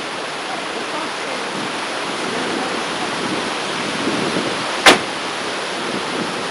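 Steady hiss of outdoor background noise with faint distant voices, and one sharp click about five seconds in.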